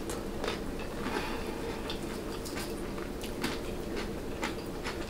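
Close-up chewing of a crisp fried egg roll: scattered soft crunches and wet mouth sounds.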